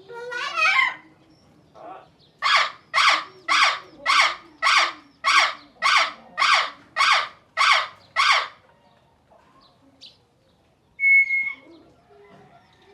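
A bird calling a series of about a dozen harsh, evenly spaced calls, roughly two a second. A short clear whistled note follows near the end.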